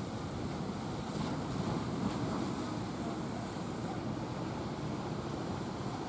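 Steady low rumble of a fishing speedboat's engine mixed with the wash of waves, with wind buffeting the microphone.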